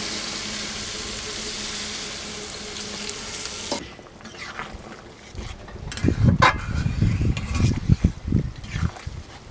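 Food frying in hot oil in a pan, a steady sizzle that stops abruptly about four seconds in. After it come irregular rustling and knocking sounds with a low rumble.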